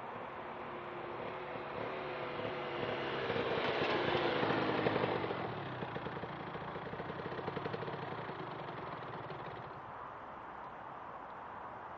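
De-restricted 2008 Aprilia RS 125's single-cylinder two-stroke engine with a full Arrow exhaust, passing at speed. It grows louder to a peak about four to five seconds in, then fades as it moves away.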